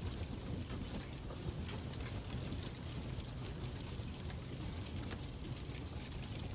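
Fireplace fire crackling: a steady low rumble with many small, irregular pops and snaps.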